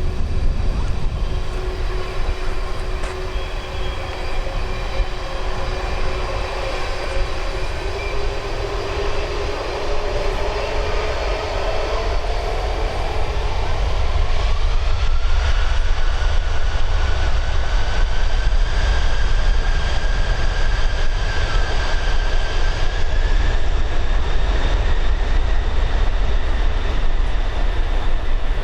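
Boeing 747-400 freighter's four turbofan engines spooling up: a whine climbs in pitch over several seconds, then the engines hold at high thrust, louder, with a deep rumble underneath.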